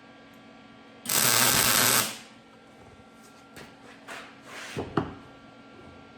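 Lincoln MIG 180 wire-feed welder laying a single tack weld: about one second of loud arc crackle starting a second in, followed by a few light clicks and knocks.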